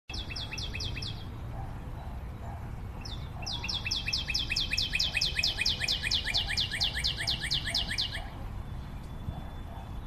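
A bird singing: rapid trills of short down-slurred notes, about six a second. There is a brief burst near the start and a longer trill of several seconds from about three and a half seconds in.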